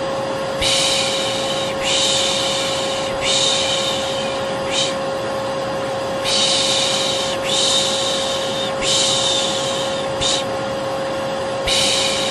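Vacuum cleaner motor running steadily with a constant hum, overlaid by a rhythmic shushing 'shhh, shhh' repeated about every second and a quarter, the white-noise lulling used to soothe a baby to sleep. Most shushes are long, a couple are short, and there is a longer gap before the last one.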